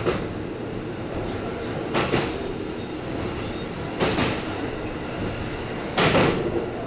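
E257-series electric train running along the track, heard from inside the leading car: a steady rolling rumble broken about every two seconds by a clack of the wheels passing over a rail joint.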